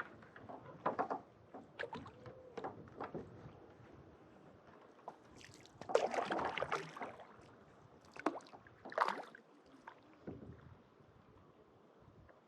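Kayak paddle strokes in lake water: irregular splashes and drips, the biggest splash about six seconds in and another about nine seconds in.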